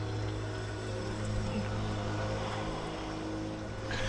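A steady, unchanging motor hum with a low fundamental and several overtones, with a brief higher-pitched clatter near the end.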